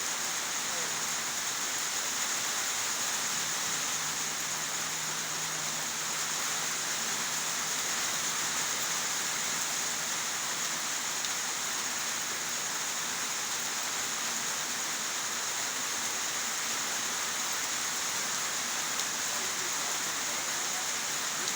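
Steady rainfall, an even hiss of rain with no letup.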